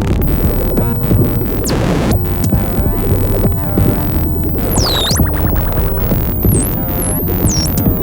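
Electronic music played on synthesizers and a drum machine: a dense, rhythmic bass-heavy groove. High whistling tones swoop down about five seconds in, and three shorter swoops come near the end.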